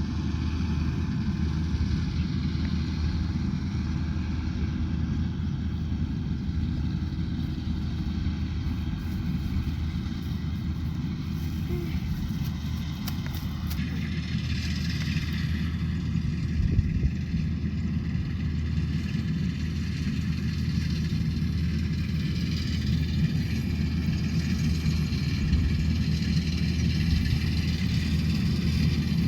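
Rice combine harvester's engine and machinery running steadily under load, a continuous low drone.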